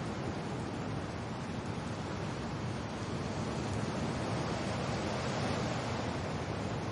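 Steady wind and rain: an even, rushing hiss that swells slightly in the middle.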